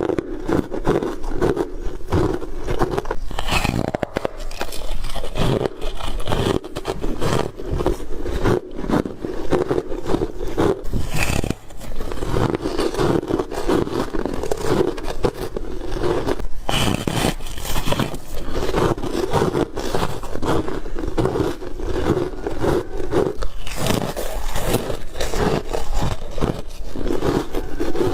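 Ice being bitten and chewed close to the microphone, with dense crunching bite after bite.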